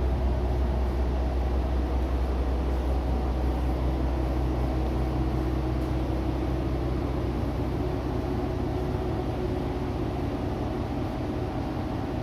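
A diesel railcar's engine idling: a steady, deep drone with a few fixed low tones.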